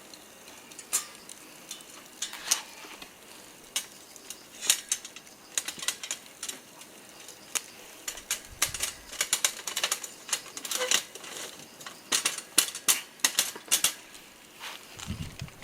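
Irregular sharp clicks and light clatter of small hard objects being handled. They come sparsely at first and grow denser from about four seconds in.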